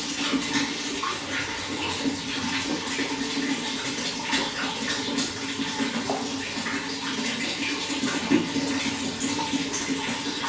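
Running water flowing and splashing continuously at a steady level, with many small bubbling splashes over a constant rush.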